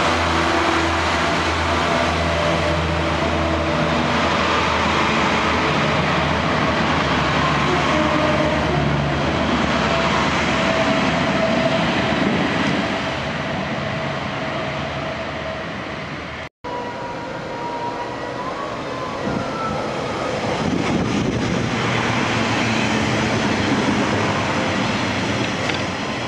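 Northern diesel multiple-unit trains, one a Class 142 Pacer railbus, running at a station platform with a steady engine drone and wheel noise on the rails. About two-thirds of the way in the sound cuts out for an instant and picks up again on another train.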